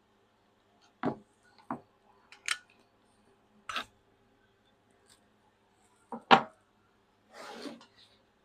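Metal valve parts and hand tools being handled on a workbench during hydraulic control valve teardown: a handful of separate clinks and knocks, the loudest about six seconds in, then a short scraping rustle near the end.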